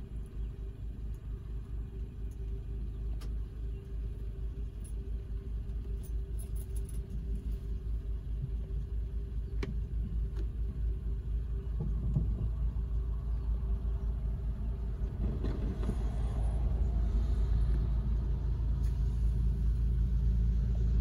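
Diesel locomotives of an approaching CSX intermodal freight train rumbling low, growing steadily louder as the train draws closer.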